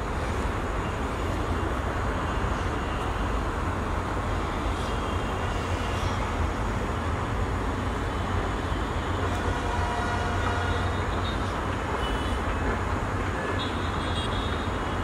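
Bangladesh Railway DEMU (diesel-electric multiple unit) commuter train running, a steady rumble of engine and wheels on rail, with faint high wheel squeals near the end.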